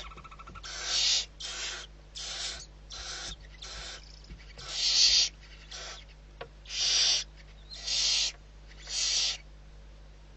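Barn owl giving a series of harsh, hissing screech calls, about one a second, some louder than others, the loudest near the middle.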